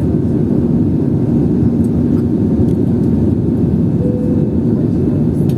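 Airliner's jet engines heard from inside the passenger cabin: a loud, steady low rumble with a faint constant hum, and a brief higher tone about four seconds in.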